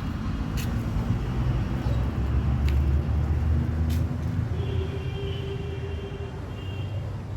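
A motor vehicle passing nearby: a low engine rumble that swells about two seconds in and fades again after about four seconds.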